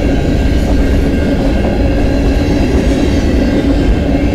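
Freight train cars rolling past: a steady, heavy rumble of steel wheels on rail.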